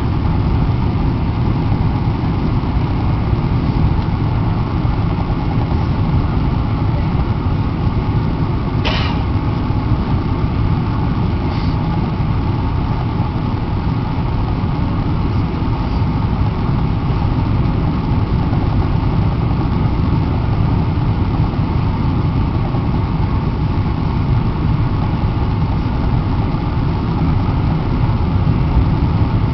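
Steady, loud low rumble of a Boeing 777-300's cabin in flight, engine and airflow noise heard from inside. There is a single short click about nine seconds in.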